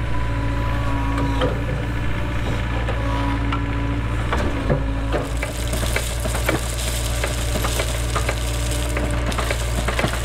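Cat 307 excavator's diesel engine running steadily under load, with a hydraulic whine that comes and goes and scattered knocks and scraping of stone and gravel; a gritty hiss joins in from about halfway through.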